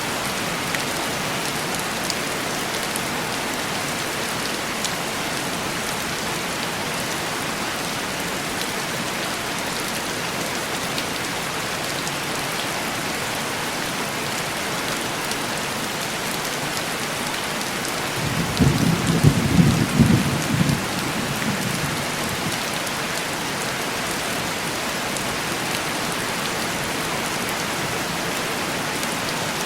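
Steady heavy rain pattering on a window pane. A low rumble of thunder rises about two-thirds of the way through, lasts around three seconds, then fades back into the rain.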